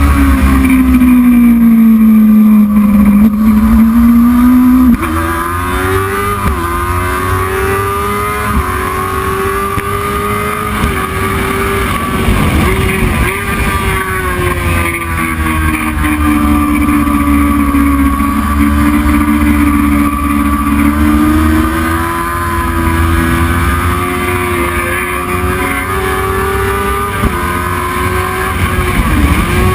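Racing motorcycle engine under hard riding. Its pitch falls as it slows, then climbs again, with abrupt jumps at gear changes. It is loudest in the first few seconds.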